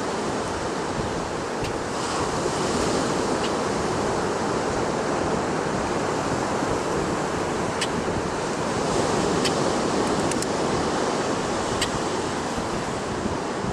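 Ocean surf washing steadily, with wind on the microphone. A few short, sharp clicks come in the second half.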